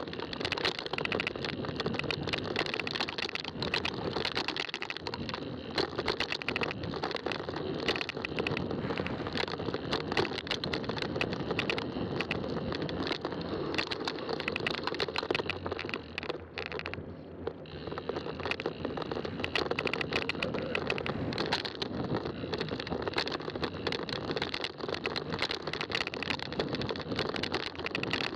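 Fat-tire bike riding over a trail: rolling tyre noise with constant rattling and clicking from the bike, easing briefly about two-thirds of the way through.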